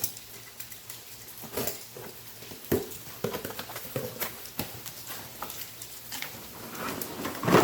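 Parts of a 2-gallon pump sprayer being unpacked from their box: scattered knocks, clicks and rustles of cardboard and plastic being handled, with a louder clatter near the end.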